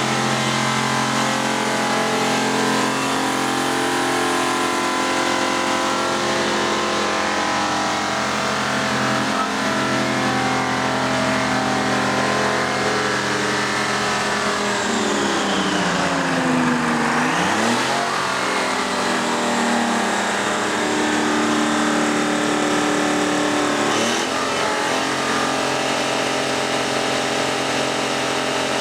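Detroit Diesel 6V-53 two-stroke V6 diesel running loud at high revs. Past the middle the revs sag briefly, the pitch falling and then climbing back to a steady high speed.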